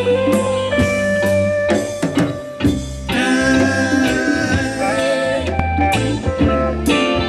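Live band music in an instrumental break: guitar playing over a steady low line and drum hits, in a bluesy feel.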